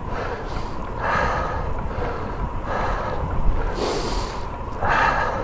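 A cyclist breathing hard in a steady rhythm, a loud breath about every second and a half, with a sharp sniff near the middle, over a steady low rumble.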